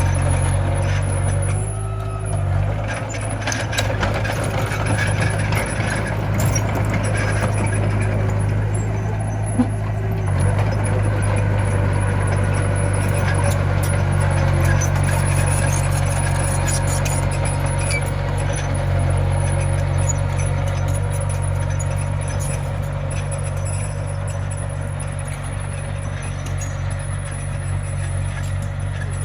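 Komatsu mini bulldozer's diesel engine running steadily, a continuous low drone.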